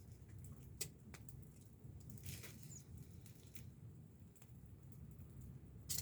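Wood fire crackling faintly: scattered sharp pops and ticks over a low steady rumble, with one louder pop near the end.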